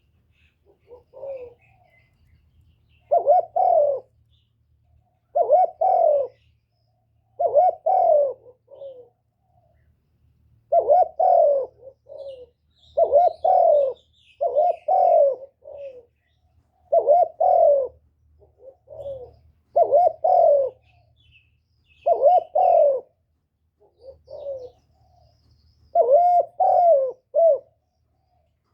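Spotted dove cooing over and over: short phrases of two to four low coo notes, one phrase every two seconds or so, with a faint low hum behind.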